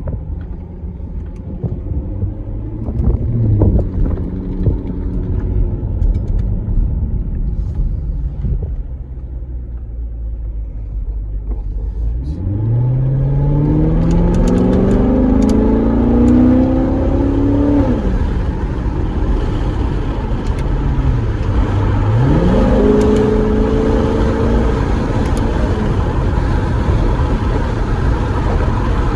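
2014 Corvette C7's 6.2-litre V8 running low at first, then pulling hard through the gears: its note climbs steadily for about six seconds, drops at an upshift, climbs again, and drops once more near the end. Wind noise rushes louder as the speed builds.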